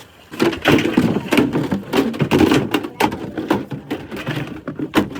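Rapid, irregular knocking and clattering, starting about half a second in.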